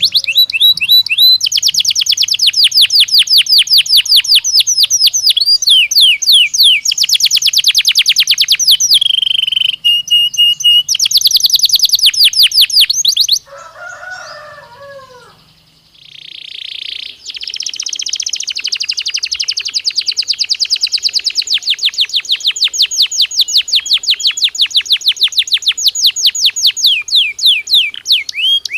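Belgian canary singing loud, fast trills of rapidly repeated high notes. About halfway through the song breaks off, a few lower, falling notes are heard, and then the rapid trilling starts again.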